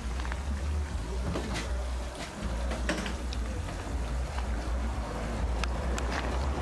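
Low rumble of wind buffeting the microphone, with scattered small clicks and knocks.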